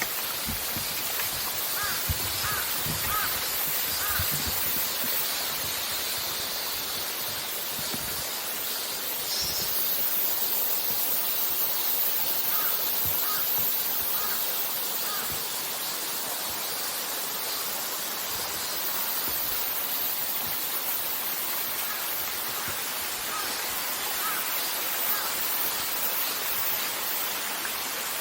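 Strong mountain wind rushing over the summit and buffeting the microphone, thumping hardest in the first few seconds. A crow caws three times in short runs of three or four calls.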